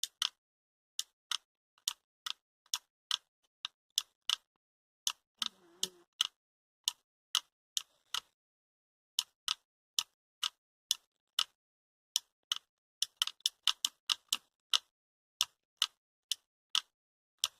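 A string of sharp, short clicks at uneven intervals, about two to three a second, with a brief low hum about six seconds in.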